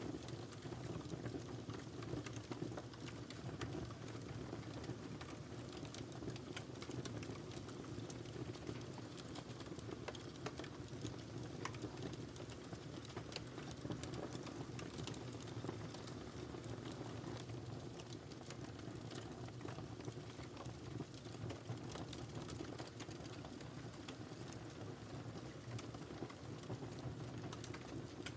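Wood fire burning in a fireplace: a steady low rumble of flames with frequent small crackles and snaps scattered irregularly throughout.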